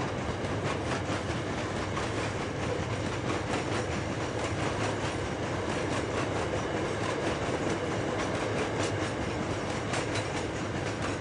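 Loaded iron ore hopper wagons rolling past on narrow-gauge track: a steady rumble of wheels on rail with a rapid run of clicks and clatter from the wheels passing over the rail.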